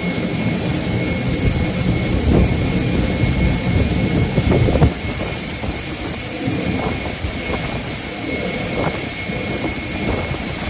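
Steady rumbling vehicle noise with a thin high whine held over it. The rumble is heavier for the first half and eases a little about halfway through.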